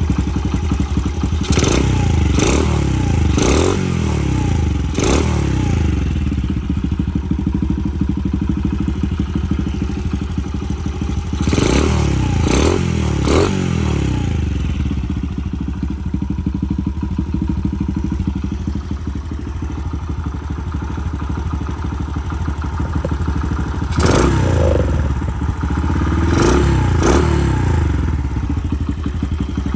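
Honda CD90 motorcycle's single-cylinder four-stroke engine idling steadily, with quick throttle blips in three groups: about four in the first five seconds, three around twelve seconds in, and three more near the end.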